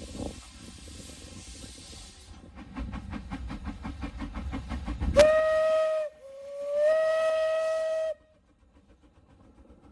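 Steam locomotive 213901 hissing steam, then a quick rhythmic beating, then two blasts on its steam whistle: a short one and a longer one that slides up in pitch as it opens.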